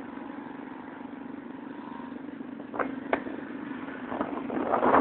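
Motorcycle engines running in the street with a steady hum, broken by two sharp clicks about three seconds in. Then a motorcycle comes closer, its engine growing loud near the end.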